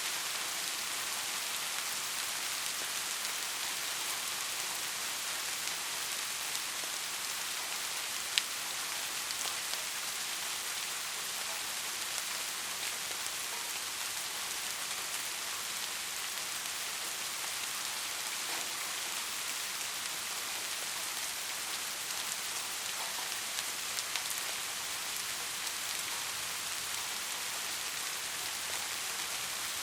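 Steady rain, a dense even hiss of falling drops with a few individual drop hits standing out, the sharpest about eight seconds in.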